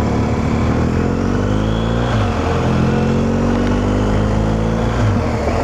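BMW GS motorcycle's boxer-twin engine accelerating through the gears, as heard from the rider's helmet. The pitch rises, drops at a gear change about two seconds in, then rises again until another change near the end. Wind noise runs underneath.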